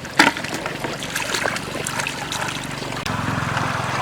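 Flowing water with a steady low motor hum that grows louder about three seconds in, a sharp knock just after the start, and scattered small clicks.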